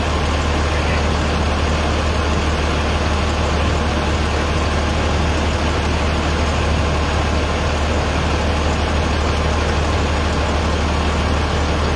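Large truck engine idling steadily, a constant low hum with no change in pitch.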